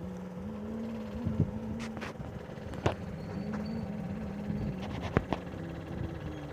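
Small electric motor running off a speed-control regulator, its hum stepping up and down in pitch as the speed changes, with several sharp clicks.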